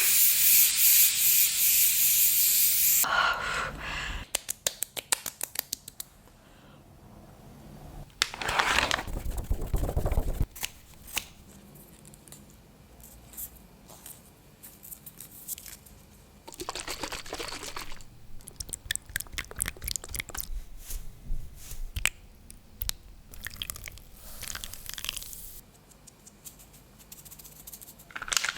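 Close-miked skincare sounds: a spray hisses for about three seconds, then come scattered sharp clicks and several short bursts of rubbing and patting of product on skin.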